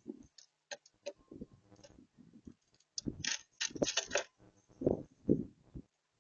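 Irregular clicks, taps and rattles, with a few short dull thumps, from birds landing on and pecking at a seed feeder close to the microphone.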